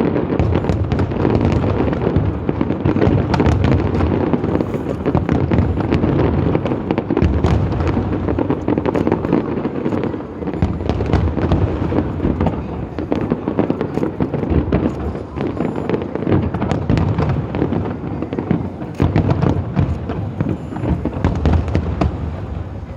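Aerial fireworks display going off in a dense, continuous barrage: many booms and crackling bursts overlap with no pause, easing slightly near the end.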